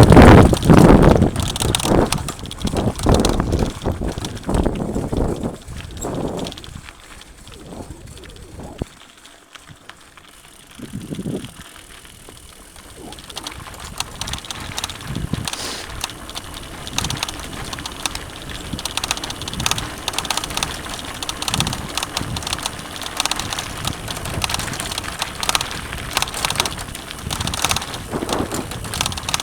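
Mountain bike riding a dirt trail: wind noise on the microphone and frequent short knocks and rattles from the bike over rough ground. It is loudest at the start, drops to a quieter stretch about a third of the way in, then goes on as steady noise with many small clicks.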